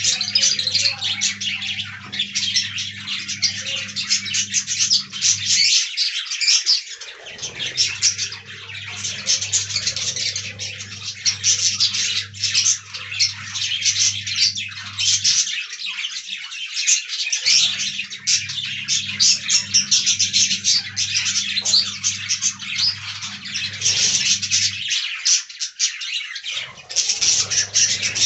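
A flock of budgerigars chirping and chattering nonstop in a dense, overlapping warble. Under it runs a low steady hum that drops out briefly three times.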